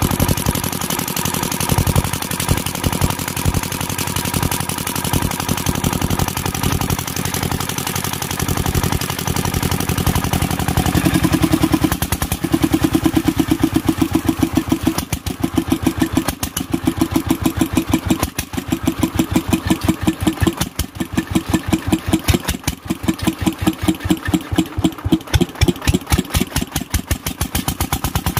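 Kirloskar single-cylinder diesel engine running with a rapid, even firing beat. About twelve seconds in, the beat becomes louder and more pronounced.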